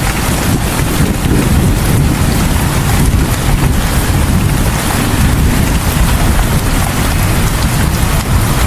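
Steady heavy rain falling in front of a house, with a dense low rumble under the hiss of the drops.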